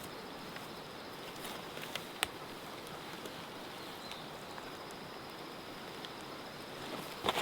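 Outdoor ambience: a steady hiss with a faint high insect drone, broken by a few sharp clicks, with a short cluster of louder clicks near the end.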